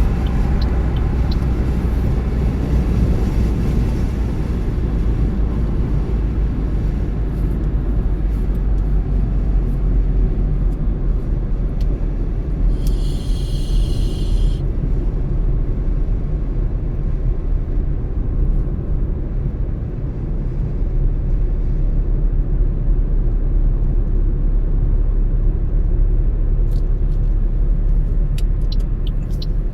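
Car driving along a road: steady low road and engine rumble. About halfway through a brief high-pitched tone sounds for a second or so, and near the end come a series of light clicks.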